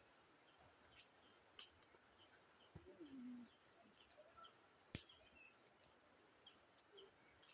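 Faint forest ambience: a thin, steady high-pitched insect drone with scattered faint chirps, broken by a few sharp clicks.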